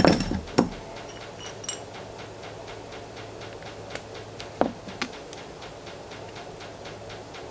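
Small metal regulator parts from a disassembled scuba piston first stage knocking and clinking against a workbench as they are handled. There is a sharp knock at the start, another just after, a faint ring, and a pair of knocks a few seconds later, over a faint, even ticking.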